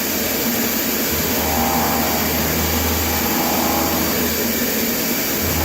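CNC machining centre rough face milling 316 stainless steel: the cutter works through the cut under a steady rushing hiss of through-spindle air blast, with a faint tone that comes and goes.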